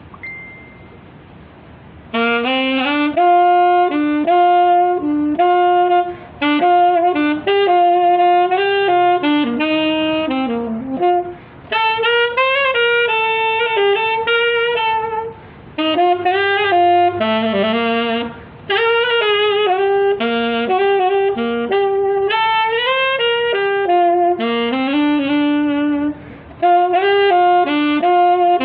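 Saxophone playing a slow song melody in phrases, with short breath pauses between them, entering about two seconds in.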